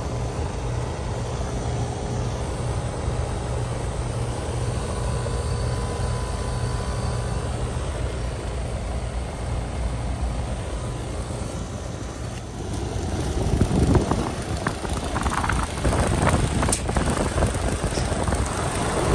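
2007 Rheem Classic 3-ton heat pump outdoor unit running steadily in heat mode, a constant compressor and fan hum with a few steady tones over it. From about two-thirds of the way in, irregular rustling and crunching of dry leaves comes in louder over the hum.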